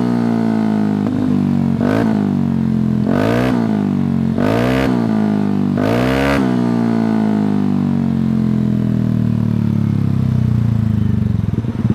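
Yamaha Aerox 155 scooter's single-cylinder engine running through a Shijiro MT GP Power racing exhaust. The revs sink slowly, broken by five quick throttle blips, each rising and falling within about half a second. Near the end the engine settles into a lumpy idle.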